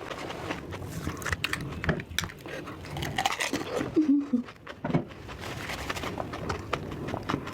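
Close-up eating sounds: irregular wet mouth clicks and chewing, with a short hummed voice sound about four seconds in.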